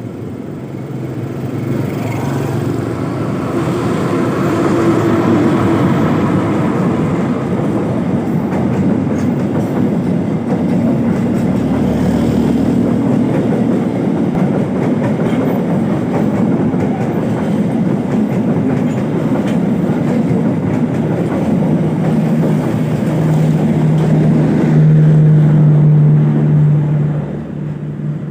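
A train running past on the rails, with a steady loud rumble and clatter of wheels that builds over the first few seconds and stays loud. A low steady tone comes in for a few seconds near the end, then the sound drops away.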